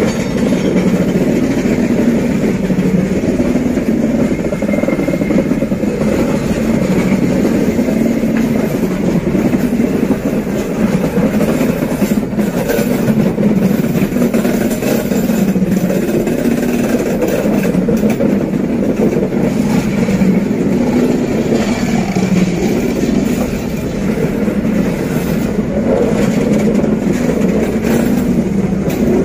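Freight train's covered wagons rolling slowly uphill close by: a steady, loud rumble and rattle of steel wheels on the rails, with scattered clanks.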